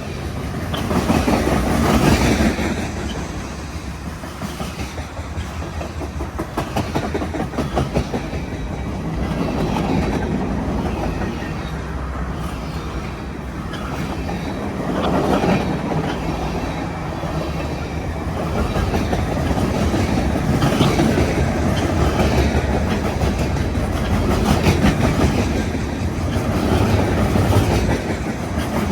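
Freight cars of a BNSF manifest train rolling past, wheels clicking over rail joints in a continuous run. The sound swells and eases every few seconds as cars go by.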